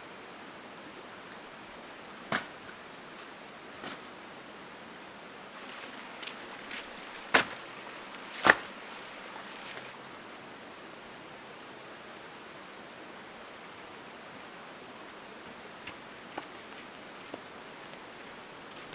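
Steady hiss of light rain, with a few sharp knocks and clicks scattered through it, the loudest two about seven and eight and a half seconds in.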